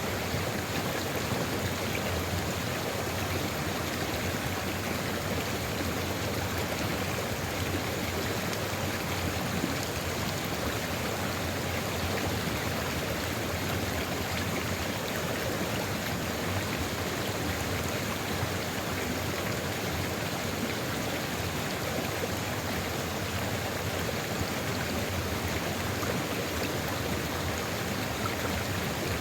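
A sulfur river flowing in a steady, even rush of water that does not change.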